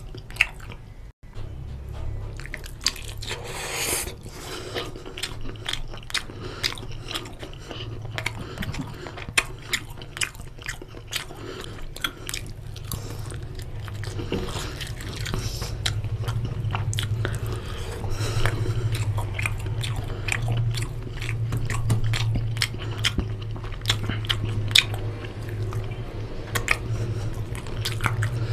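Close-up chewing and biting mouth sounds of someone eating chicken curry with rice: a dense run of wet smacks and crunchy clicks, over a steady low hum.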